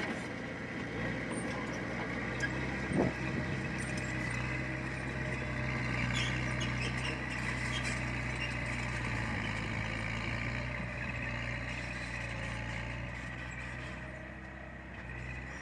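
Heavy diesel engine of earthmoving machinery running steadily, with one short knock about three seconds in.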